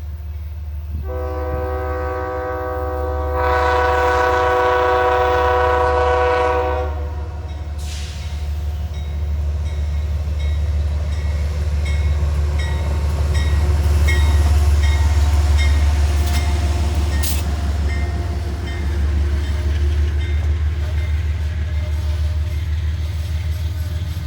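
Amtrak train's locomotive horn sounding a multi-note chord for about six seconds, louder after the first couple of seconds. Then the locomotive's engine runs with a loud, steady low rumble that swells and eases, with a quick run of regular high ticks over it.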